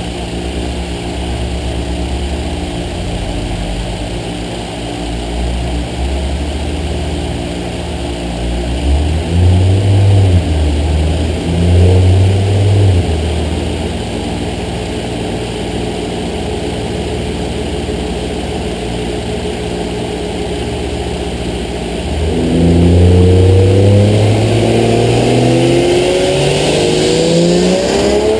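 BMW 335i's 3.0-litre inline-six, converted to a single turbo, idling, then blipped twice in quick succession about 9 and 12 seconds in. From about 22 seconds in it pulls under load on the dyno, its pitch rising steadily through the revs.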